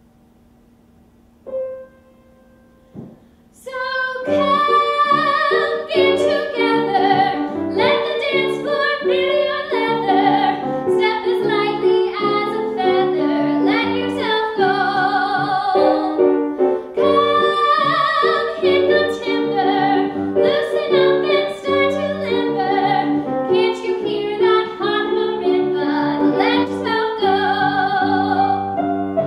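A couple of soft piano notes, then from about four seconds in a woman sings a show tune with piano accompaniment.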